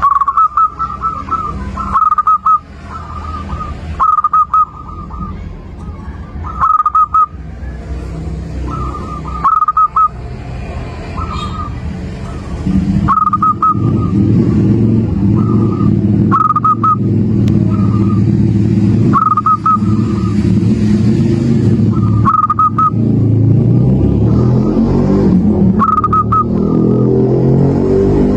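Zebra dove (perkutut) cooing, short repeated phrases every two to three seconds. From about halfway a loud low drone like a running engine sets in beneath it.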